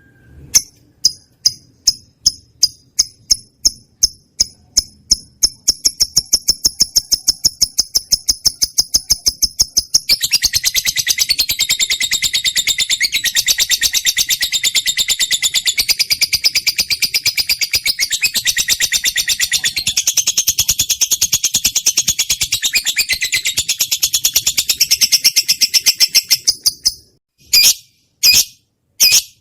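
Lovebird singing: sharp high chirps that speed up from about two a second into a rapid trill, then a long, dense, high-pitched chatter from about ten seconds in, breaking off into a few separate calls near the end.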